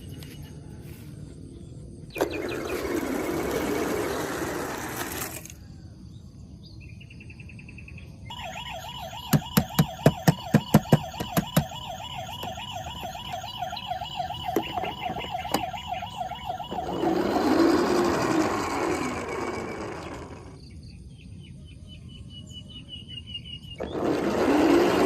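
Electronic siren warbling for about nine seconds, with a quick run of about eight sharp clicks near its start. Stretches of noise come before and after it.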